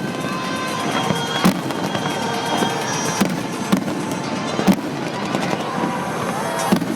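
Fireworks display, with about five sharp bangs of shells bursting over a continuous noisy rumble and crackle.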